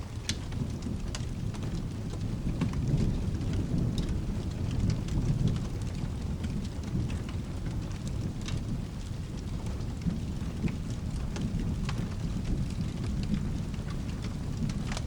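Low rolling thunder rumbling over steady rain, swelling a few seconds in, with scattered sharp crackles from a fireplace.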